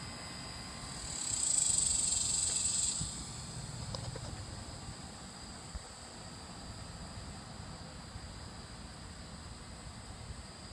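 Steady, high-pitched insect buzzing, with a louder hissing swell lasting about two seconds, beginning about a second in.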